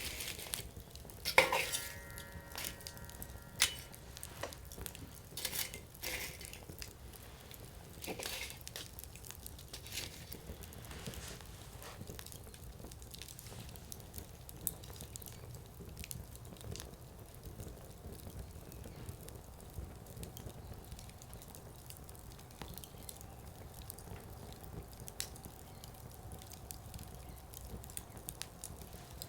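Firewood burning in a Coleman Fire Disk: scattered crackles and sharp pops over a low hiss, thinning out in the second half. About a second and a half in, one loud knock rings briefly with a metallic tone.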